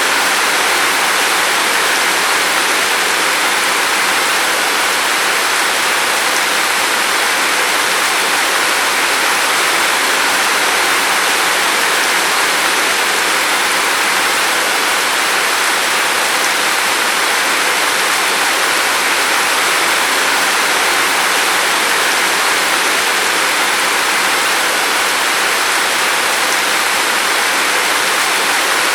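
Steady rain, a dense even hiss of falling water with no separate drops standing out.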